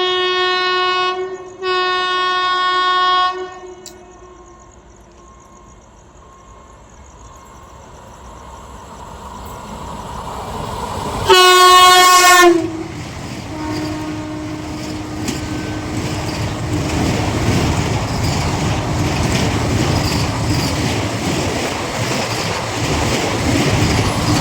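Indian express train's horn sounding two blasts, then another loud blast about eleven seconds in that drops in pitch as it ends, while the train approaches. The train then passes at speed with a loud, steady rumble and clatter of wheels on rails.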